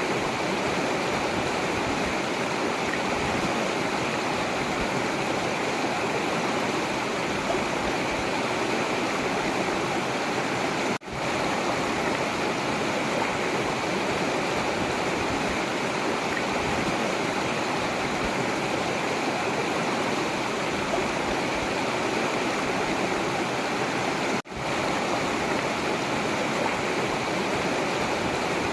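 Forest river running steadily, a continuous rushing of flowing water. Twice the sound cuts out for a split second and comes straight back.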